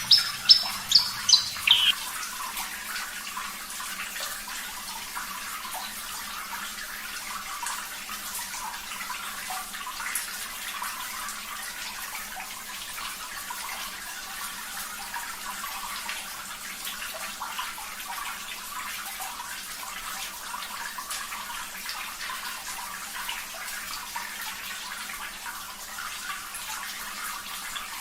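Steady running water, like water pouring from a tap. It opens with a quick run of clear repeated notes from a Javan bush lark that stops about two seconds in.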